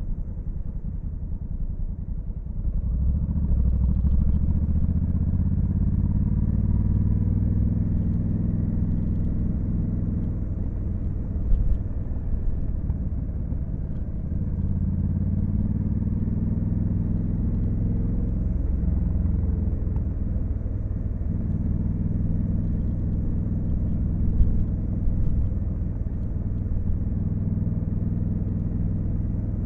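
Honda Africa Twin CRF1100L's 1084 cc 270-degree parallel-twin engine under way, pulling harder about three seconds in and then changing pitch a few times as the throttle and gears change. Two brief thumps stand out near the middle and later on.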